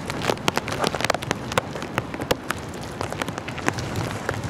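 Rain falling, an even hiss broken by many irregular sharp taps of drops striking close by.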